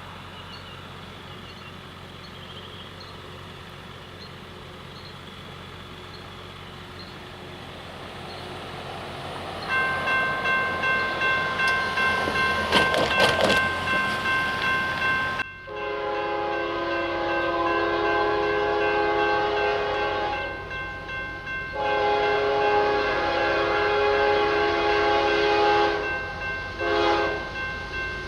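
Grade-crossing signal bells start ringing, and a few seconds later an approaching CSX freight train's diesel locomotive sounds its multi-chime air horn in long blasts with a short one near the end, the pattern blown for a road crossing.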